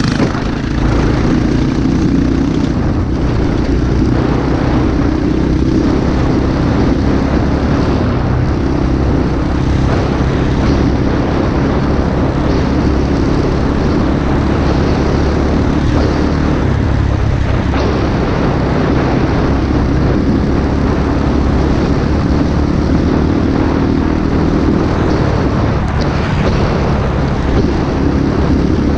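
Small single-cylinder pit bike engine running steadily while being ridden, with a constant drone and the rush of riding noise.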